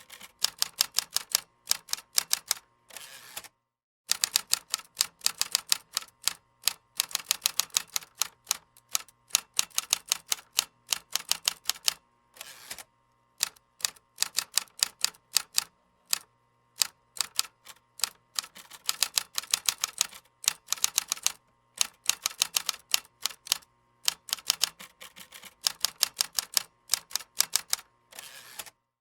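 Typing on a computer keyboard: quick runs of key clicks lasting a few seconds each, broken by brief pauses.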